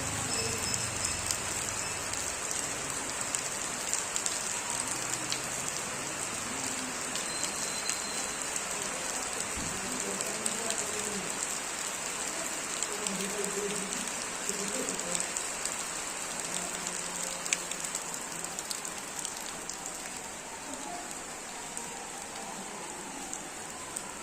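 Steady rain falling and pattering on surfaces, with many small drop ticks, easing slightly near the end.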